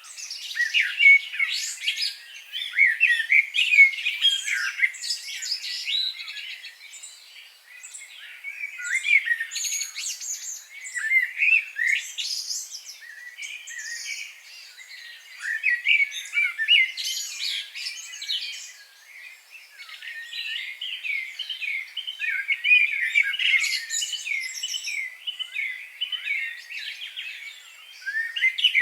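Several small birds singing and chirping at once, a dense chorus of quick high chirps and trills that swells and eases every few seconds.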